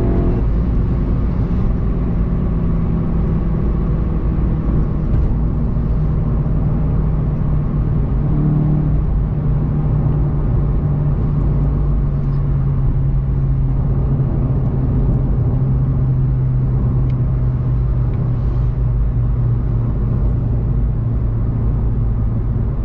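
VW Golf 7 GTI TCR's turbocharged four-cylinder engine running steadily at speed, heard inside the cabin over road noise. Its pitch drops slightly about eleven seconds in as the car eases off.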